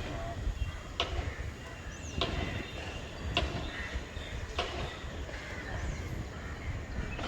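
Footsteps on a wooden boardwalk: a sharp tap about every second and a bit, over a steady low rumble.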